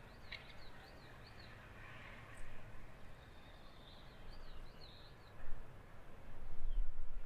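A small songbird singing: quick runs of identical high chirps, about three a second, in two phrases a few seconds apart, over a steady low background rumble.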